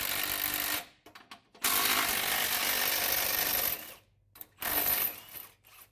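Ratchet wrench running 18 mm bolts out of the truck's front bumper mounts, in three runs: a short one at the start, a longer one of about two seconds, and a brief one near the end.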